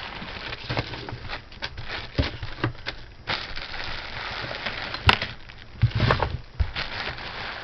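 Handling noise of individually bagged jewelry being moved aside: plastic bags rustling and crinkling, with many small clicks and a couple of sharper knocks about five and six seconds in.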